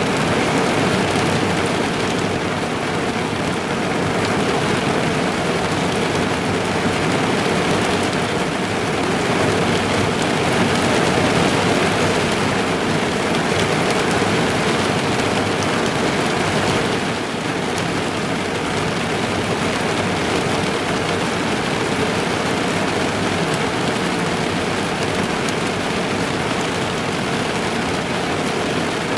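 Steady heavy rain drumming on a car's roof and windows, heard from inside the car: a dense wash of countless drop impacts, easing slightly a little over halfway through.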